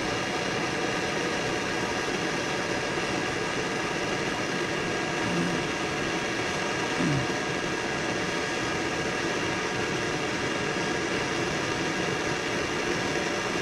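Steady whirring hum with a hiss, unchanging throughout, with two faint brief sounds near the middle.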